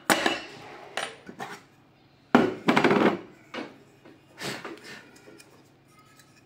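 Irregular knocks and clatters of hard vacuum-cleaner parts and tools being handled during disassembly, with a loud rattling run of impacts a little past the middle.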